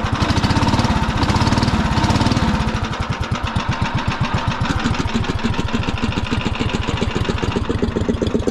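Predator 301 single-cylinder petrol engine on a golf cart running with a quick, even exhaust beat. It runs faster and louder for the first couple of seconds, then settles to a steadier, lower-speed run.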